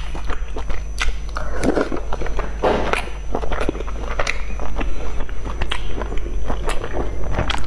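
Close-miked eating of boiled dumplings: wet chewing and lip smacks with many short clicks, over a steady low hum.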